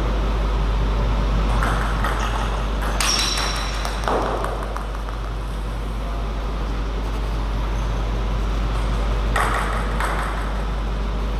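A few scattered sharp pings and knocks of a table tennis ball, one near the middle ringing briefly, over a steady low hum in the hall.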